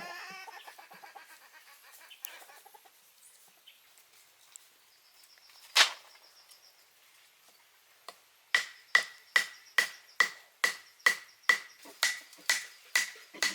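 Sharp knocks, one at a time: a single knock about six seconds in, then a steady run of them, a little over two a second, starting about two-thirds of the way through, each with a short ringing tone. Faint high cries are heard at the very start.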